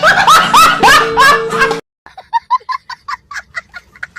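Comedy sound effect: a loud run of rising, pitched calls, about three a second, over a held musical note, cutting off suddenly just under two seconds in, followed by a quieter, quicker string of short chirps.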